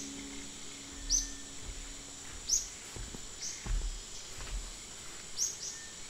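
Bird giving short, high, falling chirps, singly or in quick pairs, every second or two, over a steady high-pitched insect drone. A few faint low thumps sound on the microphone.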